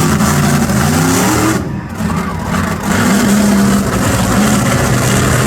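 Monster truck engine revving hard, its pitch climbing, with a brief drop in sound about a second and a half in before it picks up again and holds at high revs.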